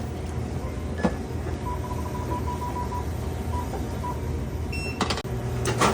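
A steady low hum with a run of short, high electronic beeps at one pitch in the middle, and a few sharp clicks about a second in and near the end.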